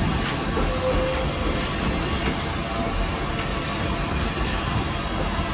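Steam locomotive No. 81 running, heard from inside its cab: a steady, dense mix of running noise with no clear beat.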